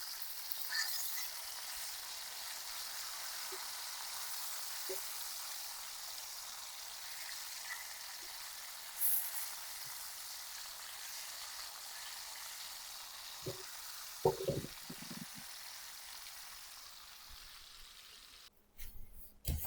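Pike frying in a pan: a steady sizzle of hot oil that slowly dies down, with a few short knocks about two-thirds of the way through.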